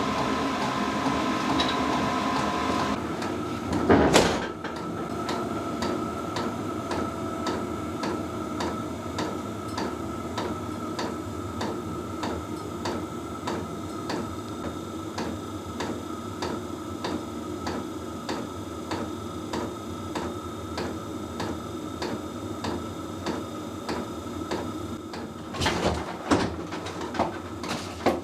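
A pump knocking steadily in a regular 'tuk-tuk-tuk', about twice a second, over a steady hum, with a loud knock about four seconds in and a few more knocks near the end.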